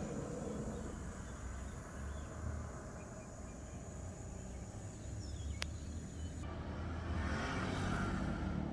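Outdoor background noise with a steady low rumble, broken by a single sharp click about five and a half seconds in.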